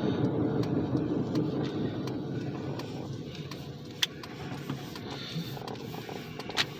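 Car engine and road noise heard from inside the cabin, steadily growing quieter, with two sharp clicks, one a little past halfway and one near the end.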